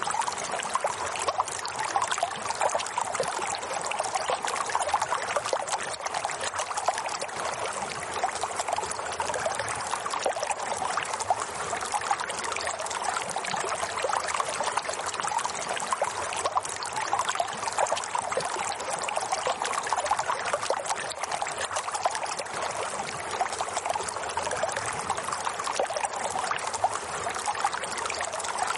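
Running water trickling and bubbling in a steady, unbroken flow.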